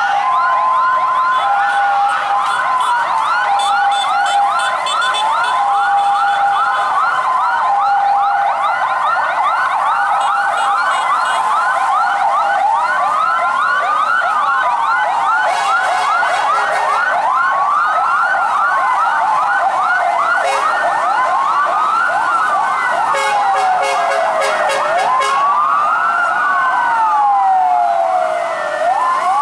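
Several fire-truck sirens sounding at once, overlapping. A two-tone hi-lo siren alternates for the first twelve seconds or so. Fast yelping sweeps run throughout, and slow rising-and-falling wails stand out more toward the end.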